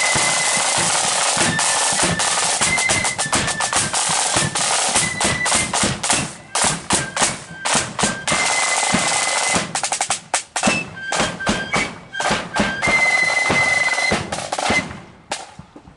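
Marching flute band playing: flutes carrying the tune over rapid snare drumming and bass drum. About halfway through, the drumming thins into separate strokes, and the music fades away near the end.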